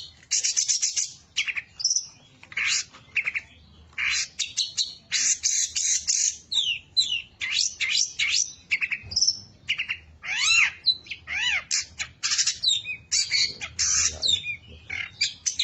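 A long-tailed shrike (cendet) singing a fast, varied song of harsh, buzzy notes and chirps packed with mimicked calls of other birds. A few arched whistled notes come about two-thirds of the way through.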